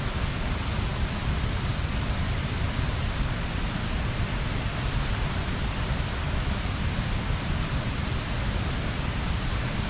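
Bonfire burning: a steady rushing hiss with a deep rumble beneath it and hardly any distinct crackles.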